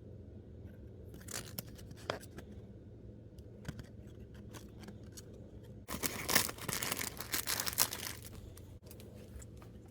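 Plastic packaging of miniatures crinkling and being torn open: a few short crackles, then a longer run of tearing and rustling from about six seconds in until about eight.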